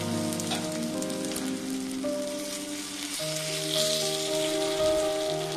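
Fish steaks frying in oil on an iron tawa, a steady crackling sizzle that grows louder about four seconds in as another piece is laid in the oil. Background music plays over it.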